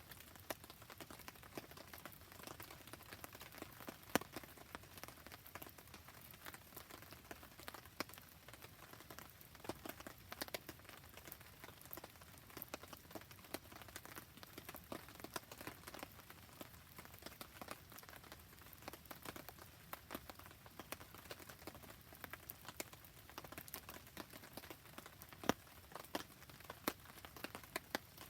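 Steady rain falling, with many sharp crackles and pops from a wood fire scattered through it; one louder pop about four seconds in and another near the end.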